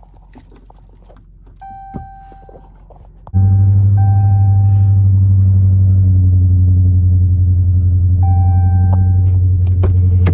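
Dodge SRT 392's 6.4-litre HEMI V8 being started: a few dashboard chimes, then about three seconds in the engine fires and settles straight into a loud, steady idle, with more chimes over it.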